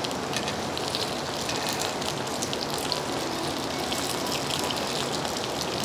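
Dumpling-wrapper spring rolls sizzling in a nonstick grill pan: a steady frying hiss with light crackles.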